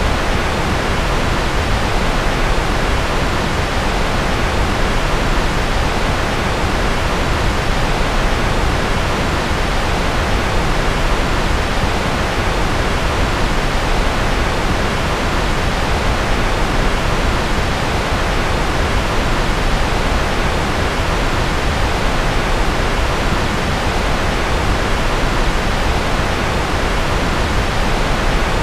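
Continuous steady synthetic noise, an even hiss with no changes, weighted toward the lower pitches like pink noise rather than flat white noise.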